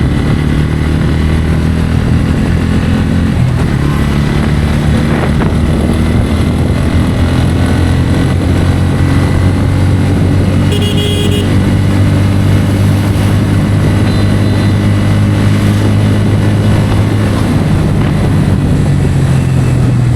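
Bajaj Pulsar N160's single-cylinder engine running steadily under way at road speed, its pitch shifting slightly with the throttle. A short horn toot sounds about halfway through.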